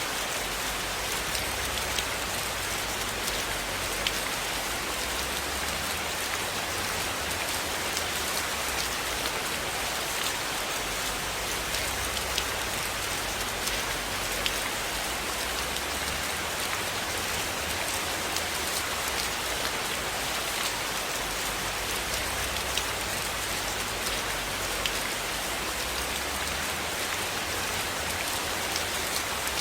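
Steady rain falling on a surface: a constant hiss dotted with scattered sharp ticks.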